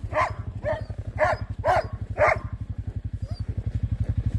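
Sled dogs barking, about five sharp barks in the first two and a half seconds, over a small engine running with a fast, even beat that gets a little louder near the end.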